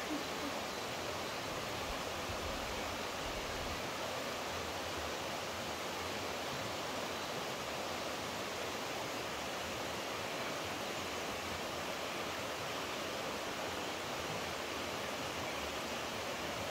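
Steady rush of flowing water, a stream or small waterfall, unchanging throughout.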